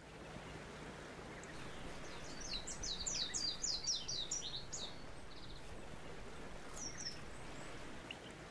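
Small bird singing: a quick run of about a dozen high, falling chirps about two to four seconds in, then a couple of single calls later on, over a steady background hiss.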